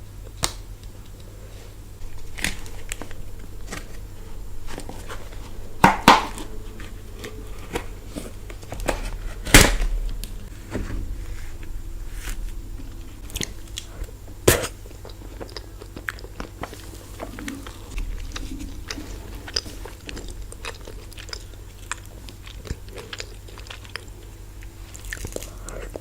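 A person biting into and chewing ice cream close to the microphone, with many small crunches and a few louder cracks about 6, 9 and 14 seconds in. A steady low hum runs underneath.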